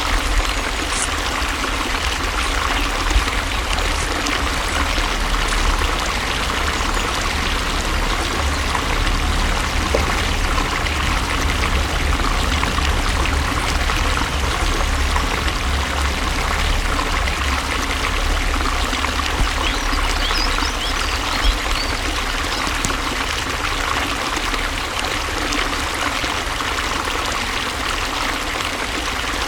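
Running water flowing steadily, a continuous rushing stream with a low rumble underneath.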